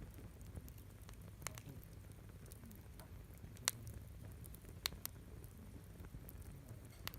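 Wood crackling in a campfire: scattered sharp pops, a handful over several seconds, over a faint low rumble.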